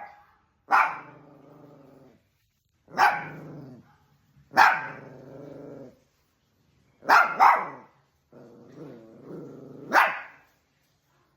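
Dogs scuffling with barks and growls: about six sharp barks, each trailing off into a growl. Near the end a longer growl builds into the last bark.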